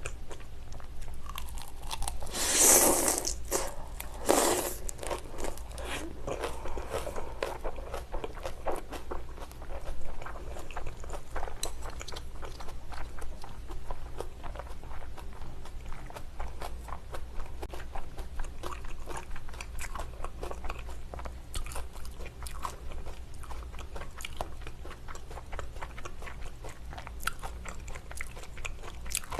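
A person biting and chewing food close to the microphone: two loud bites about two and a half and four and a half seconds in, then steady chewing with many small clicks from the mouth.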